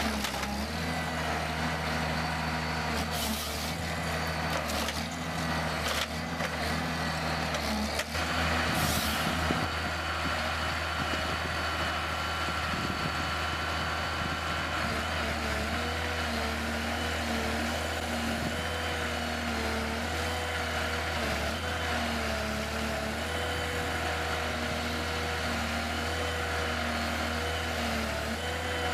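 A heavy diesel vehicle engine running steadily, with several short hisses of released air in the first ten seconds. From about halfway on, a wavering whine sits over the engine.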